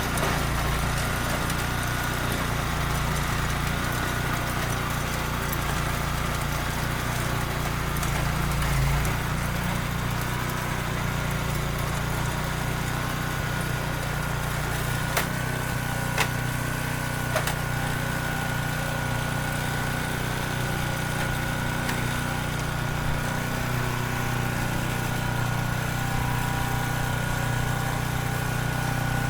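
Small engine of a mini tractor cultivator running steadily at constant speed while working the soil. A few short sharp clicks stand out near the middle.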